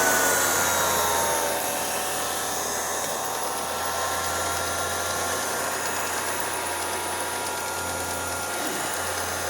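Keystone CC-8 8mm projector's freshly rebuilt brush motor running at low speed, driving the projector mechanism with a steady whine. The pitch and level drop slightly over the first second or two, then hold steady. The motor, fitted with new brushes, sounds really clean.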